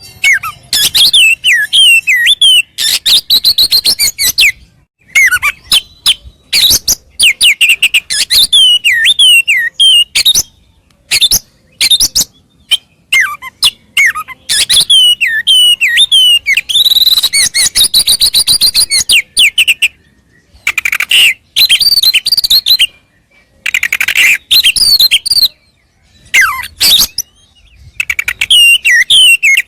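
Oriental magpie-robin (kacer) singing a loud, fast song. It comes in bursts of rapid clicking notes and swooping whistles, with short pauses between phrases.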